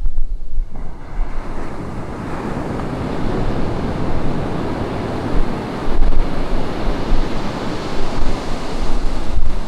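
Ocean surf breaking and washing up a beach, a dense, steady rush that builds about a second in. Wind buffets the microphone in low, gusty rumbles underneath.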